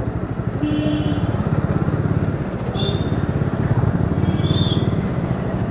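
Bajaj Dominar 400's single-cylinder engine running under way, a steady fast pulsing exhaust note with traffic around it, and a few brief high beeps from other vehicles.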